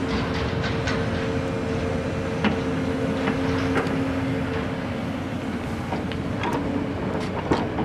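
Heavy diesel engine running with a steady hum that fades after about five seconds, over a rough mechanical clatter with scattered sharp metallic knocks.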